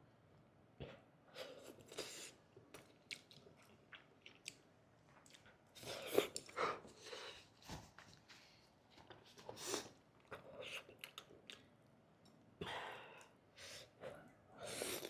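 Close-up mukbang eating sounds: a person chewing food, with many small wet mouth clicks and smacks and a few louder noisy swells of breathing or slurping about six, ten, thirteen and fifteen seconds in.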